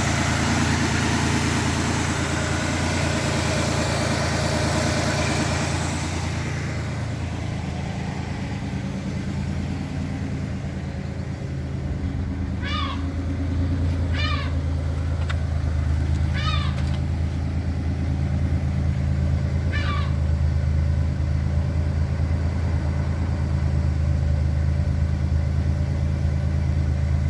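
1995 Pontiac Trans Sport's 3.8-litre L27 V6 idling steadily after a cold start, with a rushing noise that stops about six seconds in. Short high calls that fall in pitch break in five times over the engine.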